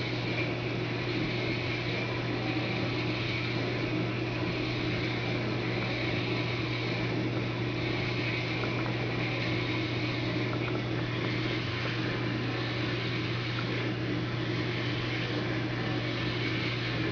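Steady low hum with an even hiss over it, unchanging throughout, from a motor or fan-like machine; no thunderclap is heard.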